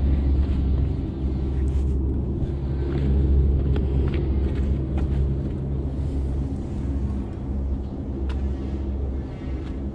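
Steady low rumble of a motor vehicle engine running, with a few light clicks over it.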